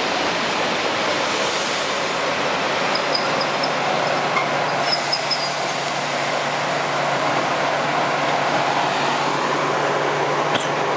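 ED4M commuter electric multiple unit running past the platform: steady rolling noise of its wheels on the rails with a steady low hum. A few faint, brief high squeaks come about three to five seconds in.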